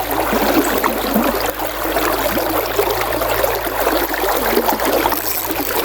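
River water running and splashing over rocks in a shallow current, a steady close-up rush.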